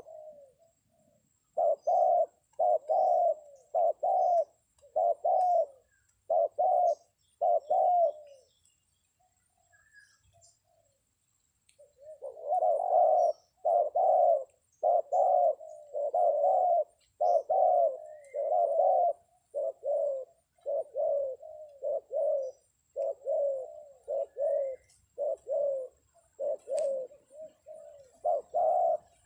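Spotted-dove cooing used as a trapping lure: short coos repeated about once a second, breaking off for a few seconds about a third of the way in, then resuming at a quicker pace. Faint chirps of small birds sound above them.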